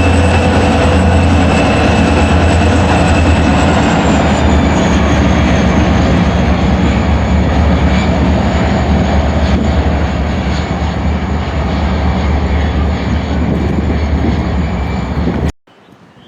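Train passing close: a steady rumble of steel wheels on the rails with thin high squealing tones held above it, cutting off suddenly near the end.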